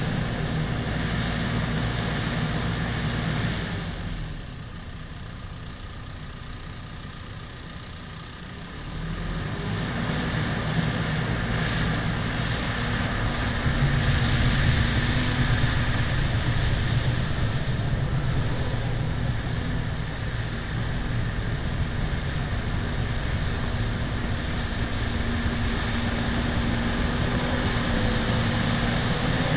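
Bulldozer's diesel engine running steadily. It drops to a lower, quieter level about four seconds in, then comes back up to a working level around nine seconds in.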